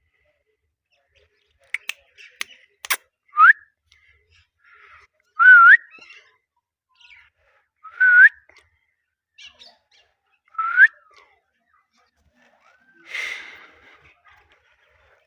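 Indian ringneck parrot giving four short rising whistles a couple of seconds apart, after a few sharp clicks, and ending with a harsher, noisier chirp.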